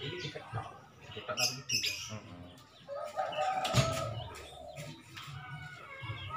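Birds calling, with scattered clicks and knocks.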